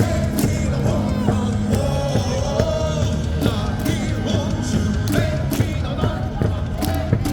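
Rock-style music with singing played over a baseball stadium's loudspeakers.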